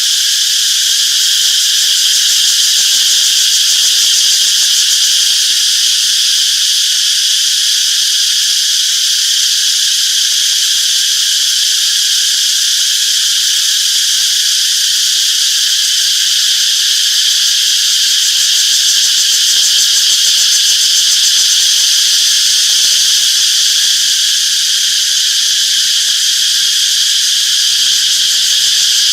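A chorus of cicadas buzzing in one steady, unbroken high-pitched drone, with no pauses or changes in loudness.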